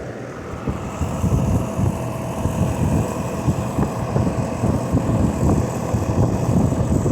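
Rheem 3-ton central air conditioner's outdoor condensing unit running in cool mode: the condenser fan's steady rush of air with a faint steady hum from the Copeland scroll compressor and Genteq fan motor, running smoothly with no rattling. A gusty rumble of air on the microphone gets louder about a second in.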